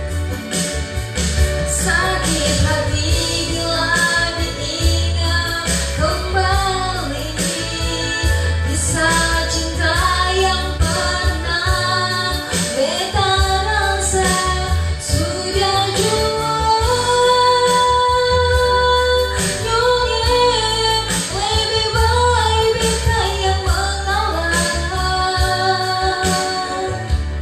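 A woman singing a slow love ballad with held, wavering notes over a backing track with a steady pulsing bass.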